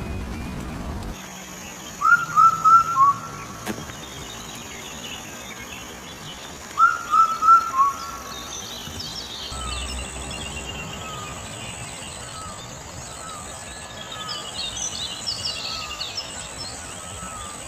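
Birds calling outdoors: two loud phrases of four quick falling chirps, about five seconds apart, with fainter high twittering from other birds later on, over a steady high thin buzz. Background music cuts off about a second in.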